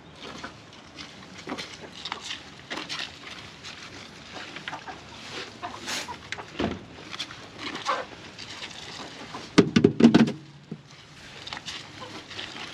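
Scattered light taps and patter, with one loud animal call about ten seconds in.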